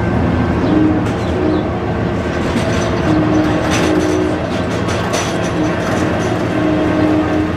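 A train rolling past close by, its wheels clacking over the rail joints, with short steady squeals from the wheels coming and going.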